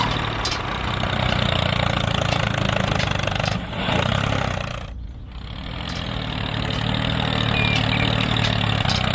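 Engine running steadily, a tractor-type engine sound that eases off about halfway through and then builds back up.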